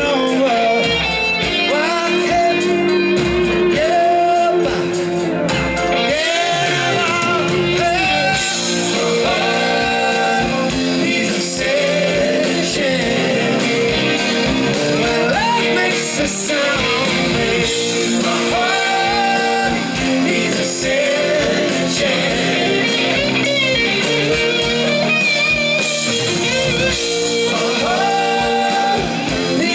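Rock band playing live: a lead singer holding long sung lines over electric guitar and a full band.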